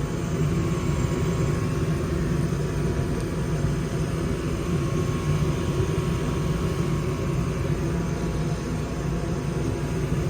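Old Goodman gas furnace running with a steady hum and whir and a faint steady tone. The technician suspects the noise comes from worn bearings in the draft inducer fan motor.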